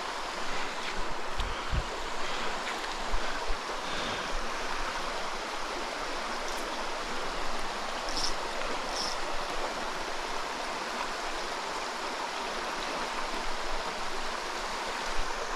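Mountain stream running over rock, a steady rushing of water. A few faint short ticks come through about eight and nine seconds in.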